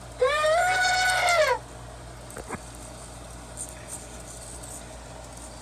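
EMO desktop robot playing its elephant sound through its small speaker: one trumpet-like call about a second and a half long, rising then falling in pitch. A faint click follows about a second later.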